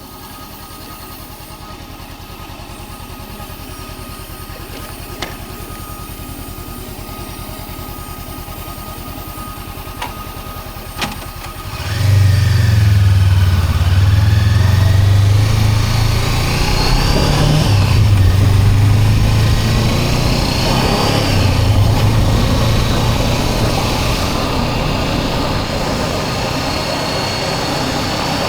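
Honda CB400X's parallel-twin engine: after a few sharp clicks it starts about twelve seconds in and keeps running, its note rising in pitch a few times.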